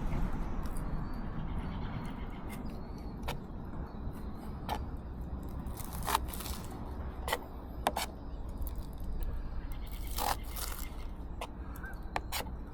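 A kitchen knife cutting green onions on a cutting board, giving scattered light clicks and knocks at irregular intervals, over a steady low rumble.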